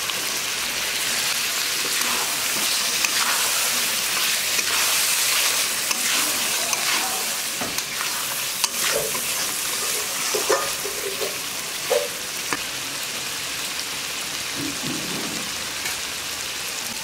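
Fried prawns sizzling in a pan of cooked-down spice paste as they are stirred in, with scattered clicks of stirring. The sizzle is strongest a few seconds in, and the clicks come mostly through the middle.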